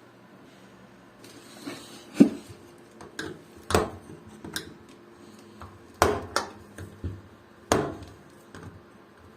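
A series of hard knocks and clanks, as of tools and parts being handled during a washing machine repair: about seven sharp, irregularly spaced hits, the loudest a little over two seconds in, over a faint steady hum.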